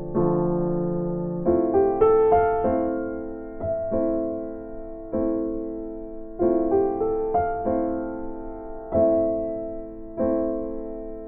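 Background music: a piano playing a slow run of chords, each struck and left to fade before the next, about one every second or so.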